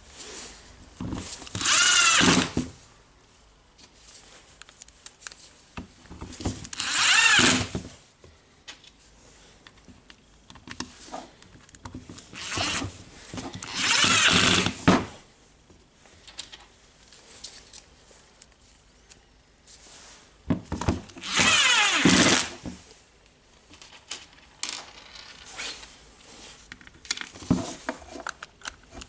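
Electric screwdriver driving the housing screws in short runs of about a second, five or so times, its motor whine bending in pitch during each run. Quiet handling noises come between the runs.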